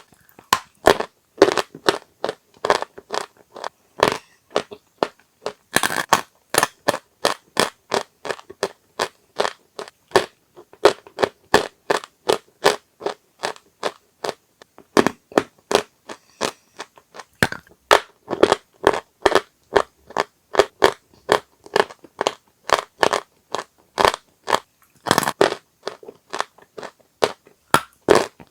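Dry chalk crunching close to the microphone: a steady run of sharp, crisp crunches, several a second.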